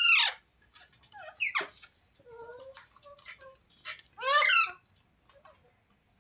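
Ringneck parrot calling: three loud calls that each fall in pitch, one at the start, a shorter one about a second and a half in, and another about four seconds in, with softer chatter between them.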